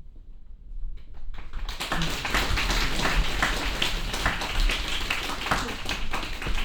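Audience clapping: a few scattered claps, then from about a second and a half in a steady run of applause.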